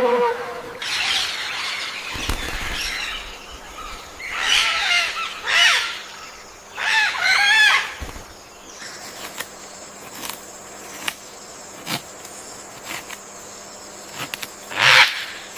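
Birds calling: a run of loud, wavering calls over the first eight seconds, then faint clicks, and one more call near the end.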